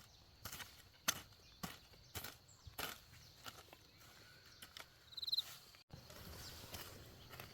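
A series of sharp knocks or thuds at a steady pace of about two a second, with a short high chirp about five seconds in. The sound breaks off briefly about six seconds in, after which a low steady outdoor noise remains.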